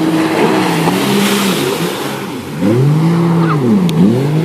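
Jet ski engine running, holding a steady note at first, then revving up and down twice in the second half, with a rushing hiss about a second in.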